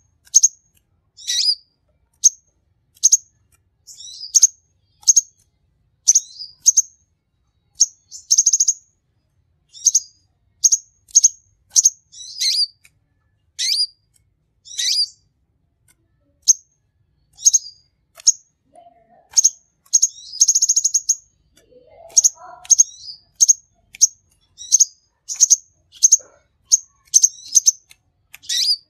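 Sunbird singing: a run of short, sharp high chirps, roughly one or two a second, broken by a longer rapid trill about eight seconds in and again near twenty seconds.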